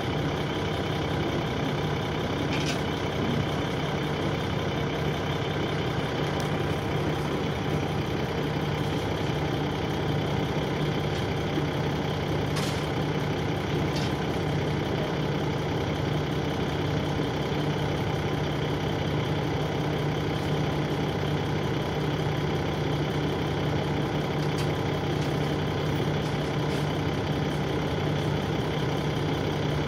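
Dennis Trident 2 double-decker bus engine idling steadily, heard from inside the bus, with a few faint clicks.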